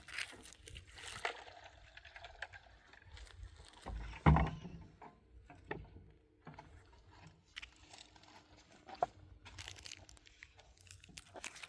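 Scattered crunching, rustling and clicking of things being handled, with one loud low thump a little over four seconds in.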